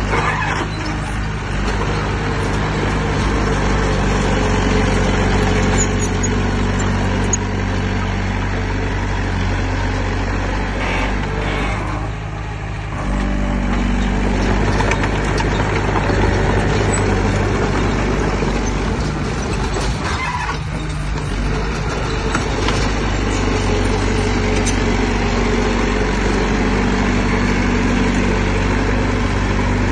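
Heavy diesel engine of earthmoving machinery running steadily under load, with a brief dip in the sound about twelve seconds in and again about twenty seconds in.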